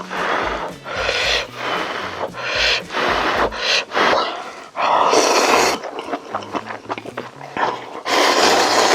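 Close-miked eating sounds from hot kimchi stew: a run of loud, airy slurps and breaths, about one every second, with a few small mouth clicks between them.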